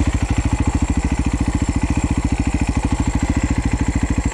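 Husaberg FX450's single-cylinder four-stroke engine running steadily at low revs, with an even beat of firing pulses.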